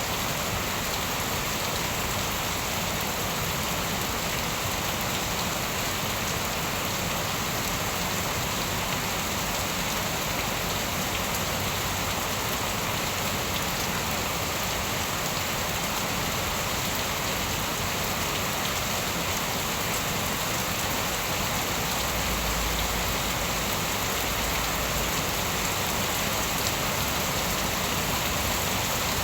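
Steady rain falling, an even unbroken hiss of drops, with a brief low rumble about three-quarters of the way through.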